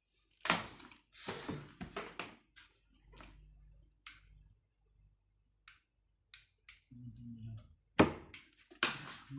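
Handling noise: a string of knocks, clicks and clatter as objects are moved about by hand, the loudest knocks about half a second in and about eight seconds in.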